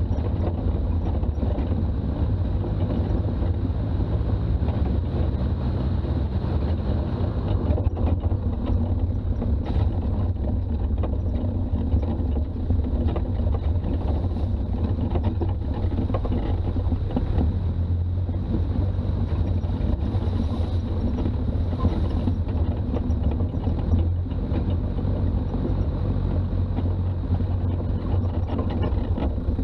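Toyota BJ40's diesel engine running steadily under way, with a heavy low rumble of engine and road noise. The engine note steps down about seven seconds in.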